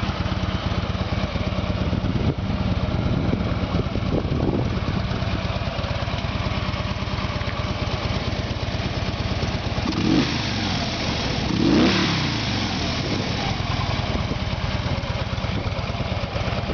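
Harley-Davidson Ultra Classic Limited's Twin Cam 103 V-twin idling steadily, with the throttle blipped twice in quick revs about ten and twelve seconds in.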